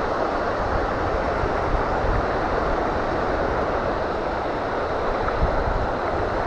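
Steady noise of ocean surf on a beach, with wind buffeting the microphone in a low, uneven rumble.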